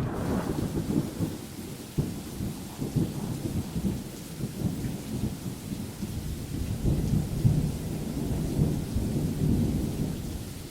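Rain with a continuous low rumble of thunder, swelling and fading unevenly.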